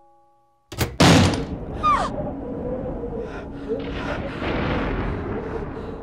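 A sudden loud thud about a second in, then a short falling glide and busy background music.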